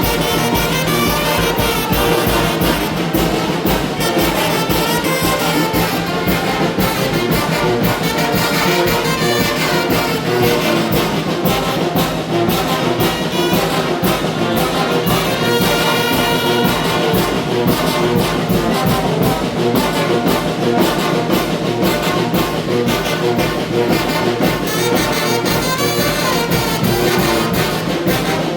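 Mexican banda brass band playing a huapango: trumpets and trombones carry the tune over a steady, driving percussion beat.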